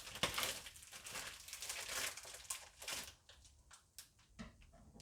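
Plastic bag of filling crinkling as it is handled and squeezed: dense crackling for about three seconds, then a few scattered clicks and taps.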